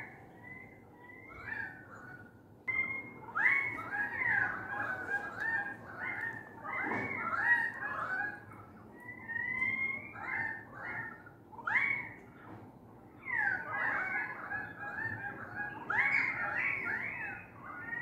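Australian magpies and currawongs calling loudly outside. Their overlapping calls rise and fall in pitch and come in bursts with short lulls between them.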